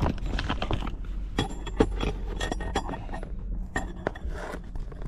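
Small metal parts of an old sink faucet clinking and scraping against each other as they are handled during disassembly, a quick run of sharp irregular clicks.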